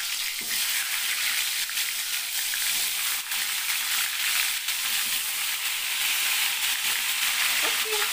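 Tempe slices deep-frying in hot oil in a wok: a steady, crackling sizzle.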